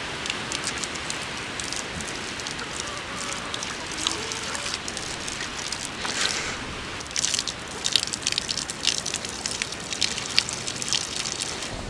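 Water being poured into a chicken waterer, a steady trickling pour with many short splashes and drips in the second half.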